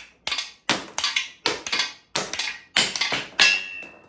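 Rapid series of sharp metallic impacts, about three a second and uneven, one of them leaving a short ringing tone near the end.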